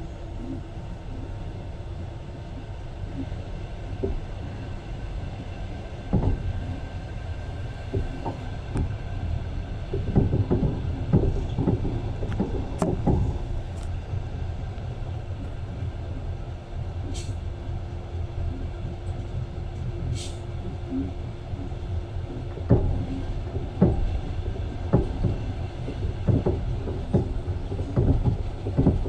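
Passenger train running on the rails, heard from inside the carriage: a steady low rumble with irregular clattering knocks of the wheels over the track, and two brief high squeaks partway through.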